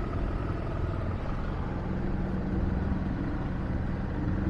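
BMW F 800 GS motorcycle's parallel-twin engine running in slow city traffic: a steady low drone mixed with road and traffic noise.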